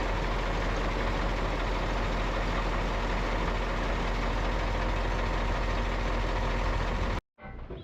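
Truck engine idling steadily, a constant low hum that cuts off abruptly near the end.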